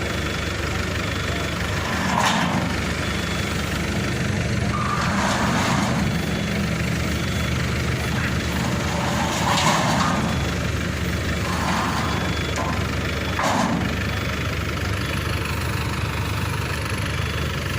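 Diesel engine running steadily at idle, with a few short, sharper sounds on top now and then.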